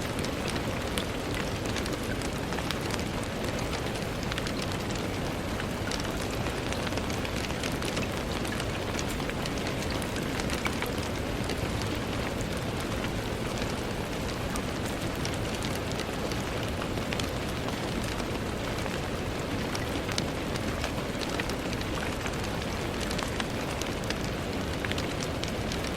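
Steady rain falling on a window pane: an even hiss of rainfall with many small, close-spaced drop taps throughout.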